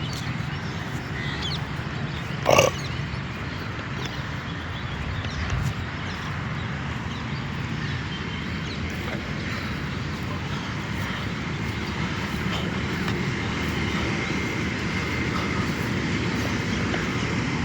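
Steady outdoor background rumble, with one short, loud animal call about two and a half seconds in.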